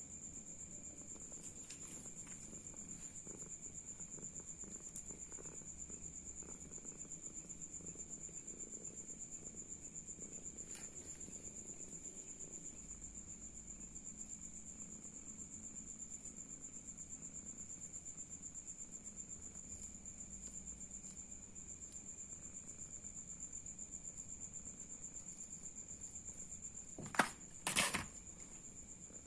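Steady high-pitched insect chirping with a fast pulse, with two sharp knocks close together near the end.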